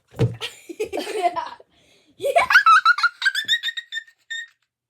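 Young girls laughing: breathy laughter at first, then a high-pitched run of quick giggles from about two seconds in.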